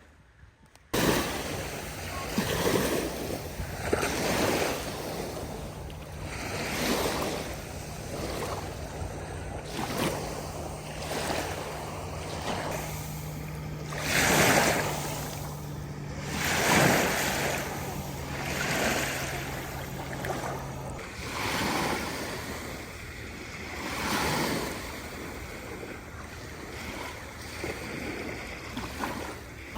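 Small sea waves breaking and washing on the shore, one swell of surf every two to three seconds.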